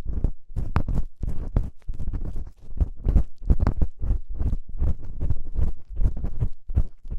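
Ear-cleaning tool scraping and rubbing in a microphone's ear, in quick, irregular strokes, about three or four a second, muffled and heavy in the low end.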